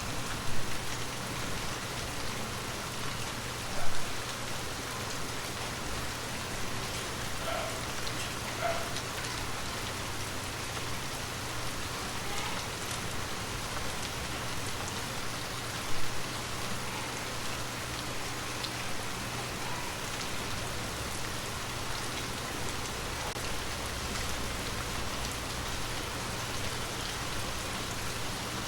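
Gentle rain falling steadily, with three brief louder hits near the start, about four seconds in and about sixteen seconds in.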